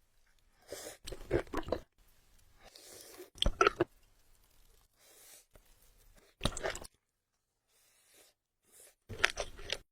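Close-up eating sounds: chewing and crunching in four short bursts with quiet gaps between them.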